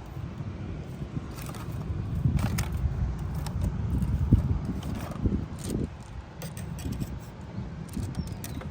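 Wind rumbling on the microphone, with scattered light clicks and rattles.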